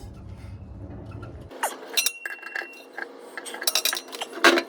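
Metal hand tools clinking and knocking against steel in irregular strikes, with a short metallic ring about two seconds in and a louder clank near the end.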